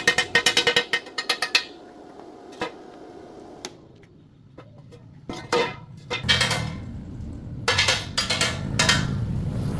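Metal clinking and rattling in quick runs of ringing clicks, about ten a second, in three spells with quieter gaps between.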